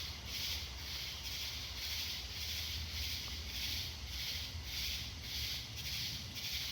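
Night insects chirping in a steady, even rhythm of about two pulses a second, with a low steady rumble underneath.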